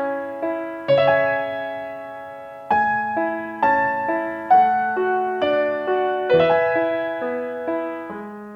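Soft, slow solo piano music: single struck notes and chords that ring and fade, a calm melody over held bass notes.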